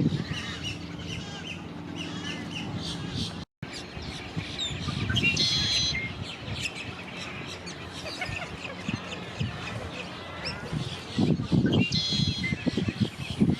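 Several wild birds chirping and calling, with many short high chirps and a couple of louder, fuller calls standing out about five and a half and twelve seconds in. The sound cuts out completely for a moment about three and a half seconds in.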